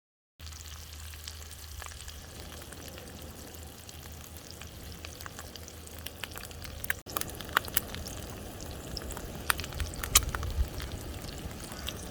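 Food frying over a campfire: a steady sizzle with crackles and sharp pops that come more often in the second half.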